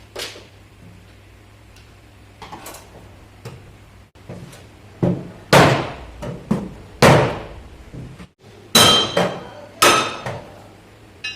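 Hammer blows on car body sheet metal: about seven irregular strikes, the last two ringing with a metallic tone, as dents from an accident are beaten out.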